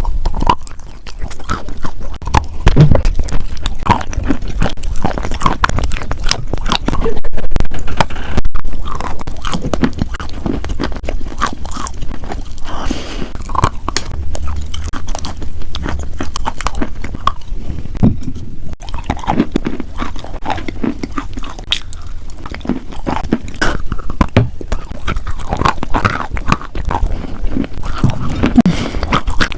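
Close-miked crunching and chewing of crunchy food: continuous crisp crackles and bites in quick irregular succession.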